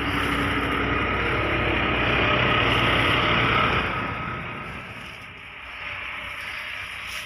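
A motor vehicle running close by, a steady rumble with a faint whine, swelling and then dropping away about four seconds in.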